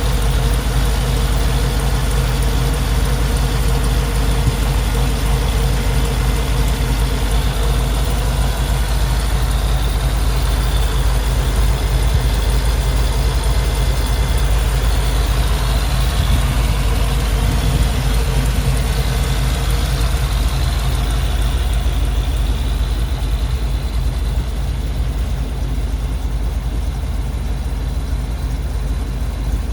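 An engine running steadily at a constant speed, with no revving, a little quieter in the last few seconds.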